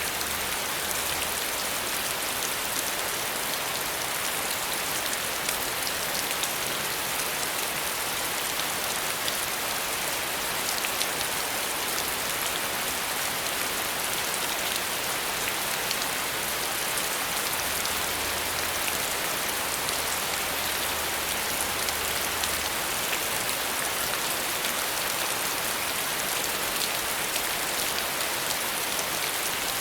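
Steady rain falling, an even dense patter of many drops hitting a surface.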